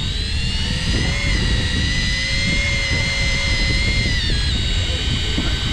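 Electric fishing reel's motor whining as it winds in line: the whine spins up, holds steady, then drops in pitch about four seconds in. The boat's engine and wind rumble low beneath it.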